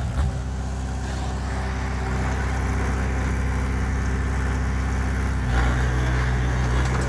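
Bulldozer's diesel engine running steadily. About five and a half seconds in, its note shifts and gets a little louder.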